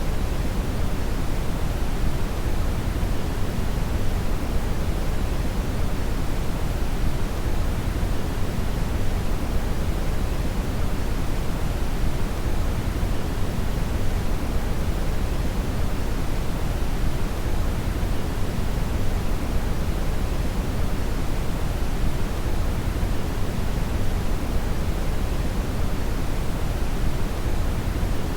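Steady brown (red) noise: a continuous deep rushing hiss, heaviest in the bass and falling away toward the treble, with no changes.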